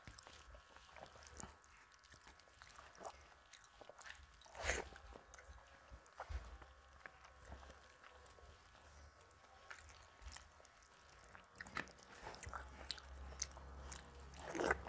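Close-miked eating sounds: chewing a mouthful of rice and curry, with fingers squishing and mixing rice and curry on the plate. Scattered short wet clicks, the loudest about four and a half seconds in and again as a handful goes into the mouth near the end.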